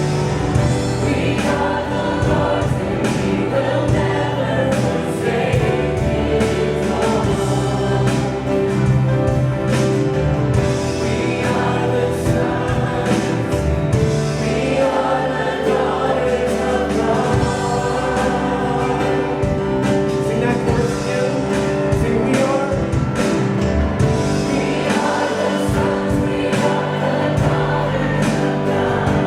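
Congregation singing a worship song together over musical accompaniment, in the style of gospel choir singing.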